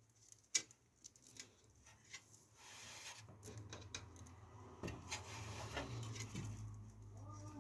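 Scattered clicks, knocks and rubbing of parts being handled, with one sharp knock about half a second in. A low steady hum comes in about three seconds in.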